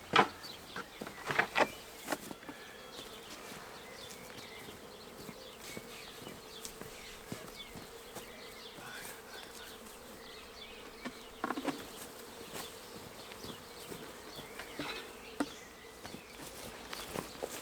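Honey bee swarm buzzing in flight: a steady hum with individual bees zipping close past, their pitch rising and falling. The closest, loudest passes come in the first two seconds and again about eleven and a half seconds in.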